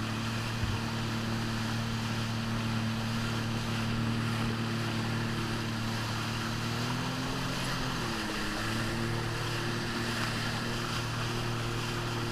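Jet ski engine running at a steady pitch over rushing water and wind noise; about seven seconds in the pitch rises slightly, dips, then settles back.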